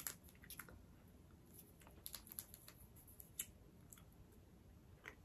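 Near silence, with faint scattered mouth clicks of someone chewing a small straw-shaped gummy candy.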